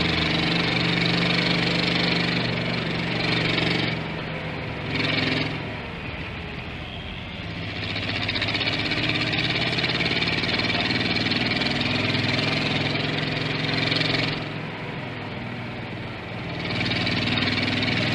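Toyota Land Cruiser hardtop engine and exhaust running with a deep, rough note. The engine eases off twice, about four seconds in and again near the end, with a short surge in between, and then pulls up louder again.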